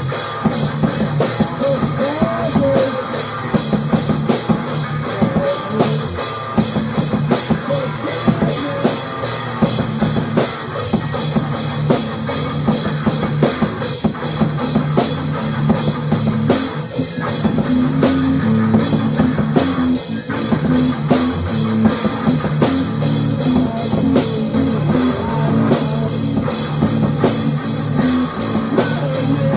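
Instrumental rock music with a drum kit keeping a steady beat, bass and guitar.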